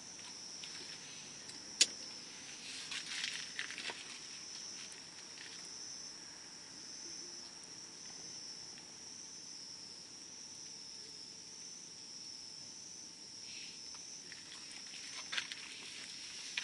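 Wood campfire burning low with sparse crackles and one sharp pop about two seconds in, over a steady high insect trill.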